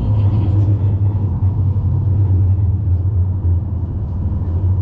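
Tram running along its rails, heard from inside the passenger cabin: a loud, steady low rumble.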